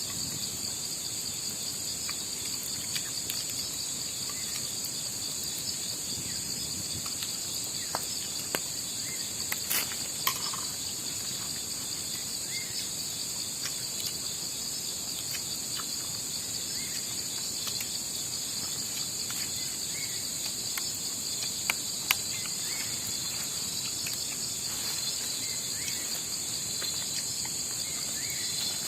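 A steady chorus of night insects, a dense high-pitched trilling that holds unbroken, with a few sharp ticks scattered through it.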